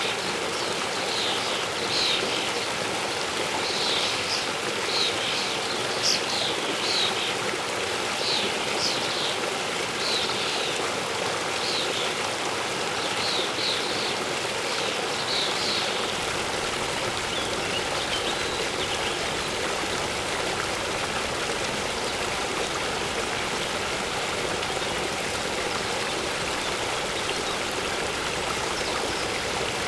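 Waterfall water rushing steadily, with a bird giving many short high chirps through the first half, thinning out to a few faint ones after.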